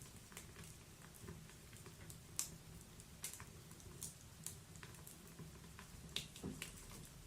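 Wood logs burning in a fireplace, crackling: faint, irregular sharp snaps and pops over a soft low rumble of the fire, the loudest snap about two and a half seconds in.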